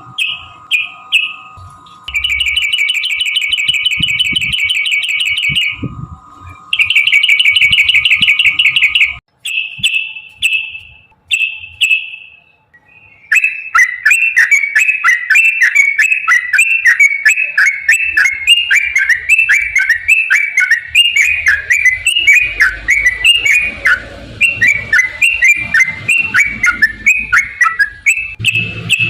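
Yellow-vented bulbul (trucukan) singing: rapid trilled chatter in bursts, two long trills in the first third, short phrases, then from about halfway a long unbroken run of quick repeated chattering notes. A steady faint tone runs under the first third.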